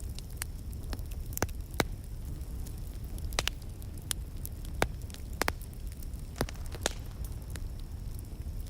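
Wood fire in a fireplace crackling, with a steady low rumble of flames and irregular sharp pops and snaps, a few of them loud.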